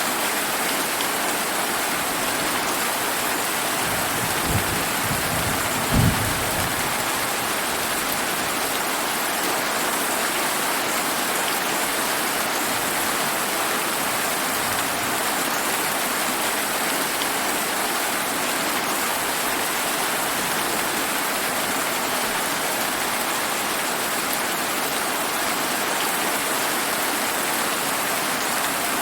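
Steady rain pattering down, with two brief low thunder rumbles: a faint one about four seconds in and a louder, sharper one about two seconds later.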